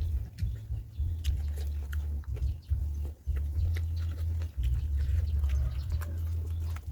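Close-up eating noises of a man chewing a mouthful of noodles and pork, with wet clicks and smacks over a heavy, uneven low rumble.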